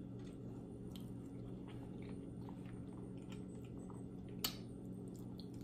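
Soft, close-up chewing with small wet mouth clicks as pounded yam and egusi soup are eaten, over a faint steady low hum; one sharper click about four and a half seconds in.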